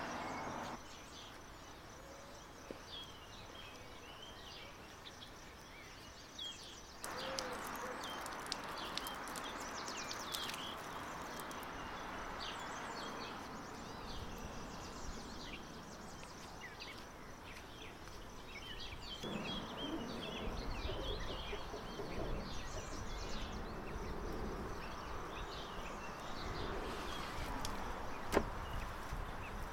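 Small birds chirping and twittering on and off throughout, over outdoor background noise. A handheld butane gas torch hisses at the start and cuts off within the first second.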